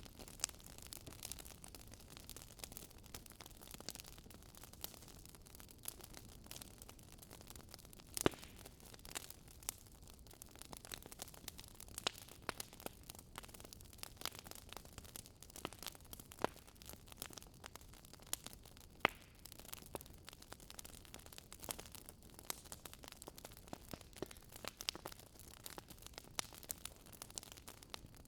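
Wood fire crackling in a fireplace: irregular sharp pops and snaps over a soft steady hiss, with a louder pop about eight seconds in and another about nineteen seconds in.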